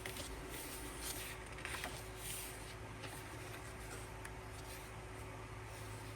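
Faint rustling and light handling of paper and card as album contents are turned over, a few soft scratches in the first couple of seconds, then mostly a steady low room hum.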